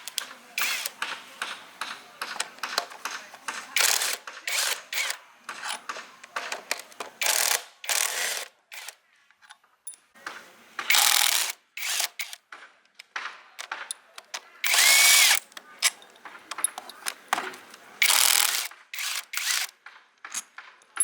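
Repair work with tools on metal machine parts: a run of short clicks and rattles, broken by a few louder bursts lasting up to about a second.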